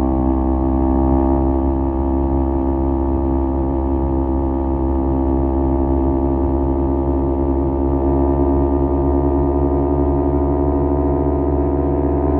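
Kawasaki Z250 parallel-twin engine through an aftermarket SeaPro muffler, cruising at a steady engine speed with an even exhaust drone.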